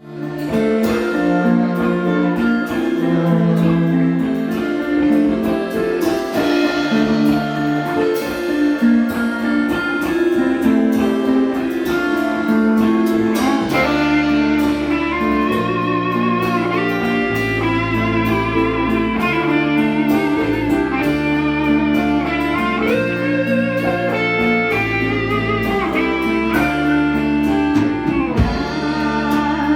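Folk-rock band playing a song's instrumental introduction with plucked strings. About halfway through, a deep bass part and a high, wavering melody line join in.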